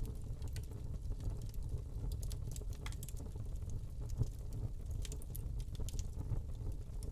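Wood fire burning in a fireplace: frequent small crackles and snaps over a low steady rumble of the flames, with busier clusters of crackling midway and later on.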